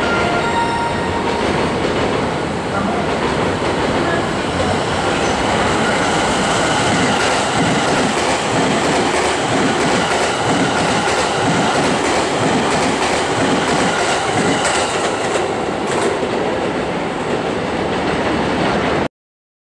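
JR Central 315-series electric multiple unit, two sets coupled, passing through the station without stopping: a steady rolling rumble of the cars, with wheels clacking over the rail joints in a regular rhythm that is plainest in the second half. The sound cuts off suddenly near the end.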